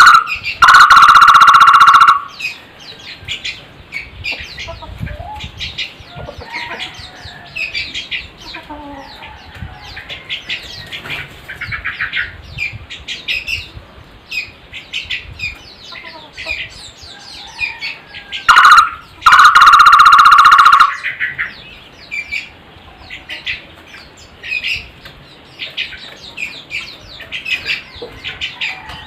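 A barbet (takur) calling twice, each call a loud rapid trill about two seconds long: one at the start and one about two-thirds of the way through. Smaller birds chirp softly in between.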